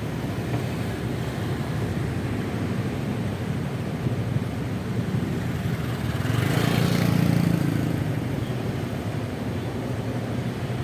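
Honda Vario 125 scooter's single-cylinder engine and road noise while riding in city traffic, a steady low rumble. A louder rush of noise swells and fades about two-thirds of the way through.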